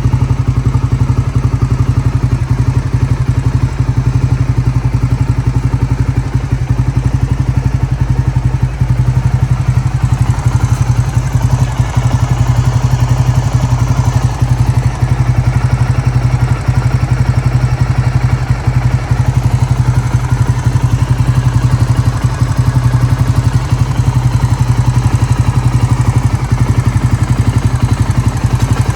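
Honda GB250 Clubman's air-cooled single-cylinder four-stroke engine idling steadily, its exhaust pulsing evenly with no revving.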